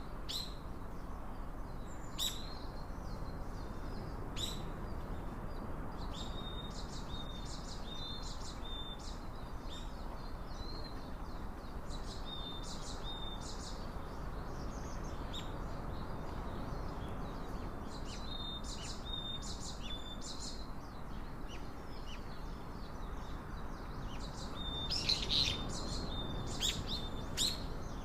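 Small birds chirping repeatedly in short, high notes, with a flurry of chirps near the end, over a steady low rushing background.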